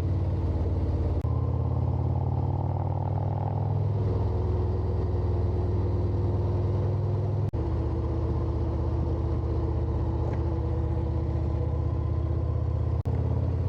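Harley-Davidson Road Glide's V-twin engine running steadily while cruising, with wind and road noise. The engine note shifts about four seconds in, and the sound breaks off sharply for an instant three times.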